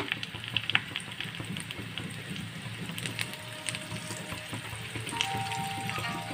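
Folded tacos shallow-frying in hot oil over a low flame: a light sizzle with scattered crackles and pops. Background music with sustained tones comes in about five seconds in.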